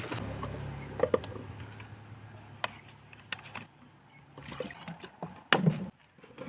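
Water sloshing in a cooking pot, with a steady low hum under it and several sharp knocks and clatters of cookware being handled.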